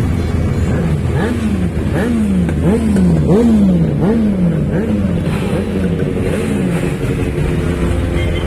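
Motorcycle engine revved in a run of quick throttle blips, about one and a half a second, each rising sharply and dropping back, then settling to a steady idle near the end.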